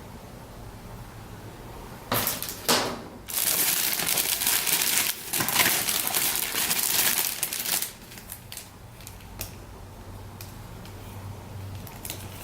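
Packaging crinkled and rustled about two seconds in, loud and dense for about six seconds with a short break, as kit parts are handled out of their wrapping; a few light clicks follow.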